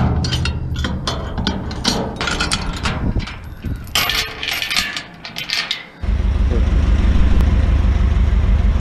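Scrap metal clattering and clanking as it is handled, a quick run of sharp knocks and clinks. About six seconds in this stops and a steady low rumble starts abruptly.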